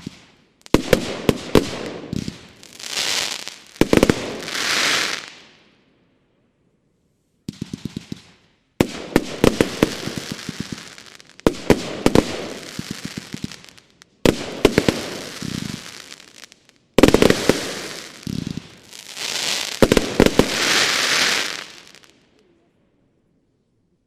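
Bonfireworks Sonic Spin Shell, a 112-shot 25 mm consumer firework cake, firing in salvos of sharp reports, each followed by a swelling hiss. There is a short pause near the quarter mark, and the cake finishes about two seconds before the end.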